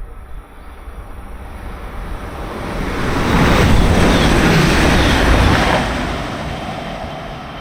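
A train passing at speed: a rush of wheel and air noise that builds up, is loudest for about three seconds in the middle, then fades away.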